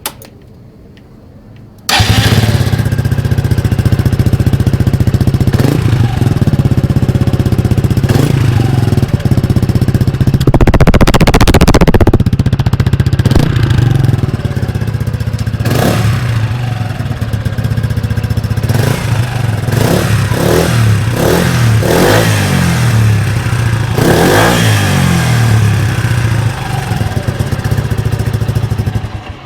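Scooter engine fitted with a Turbo Kit aftermarket exhaust, running loud and steady, starting abruptly about two seconds in. It is revved up and back down several times, once about ten seconds in and in a quick series of short blips near the end.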